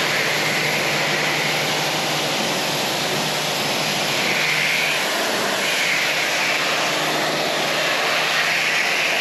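Pressure washer spraying inside a truck cab: a loud, steady hiss of the water jet over a faint motor hum, its tone swelling and fading as the spray sweeps across surfaces.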